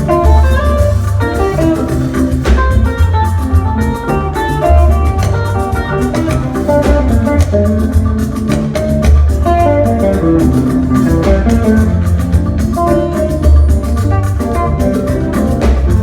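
Band music in an instrumental stretch between sung lines: quick picked guitar lines over a heavy, steadily pulsing bass and drum beat.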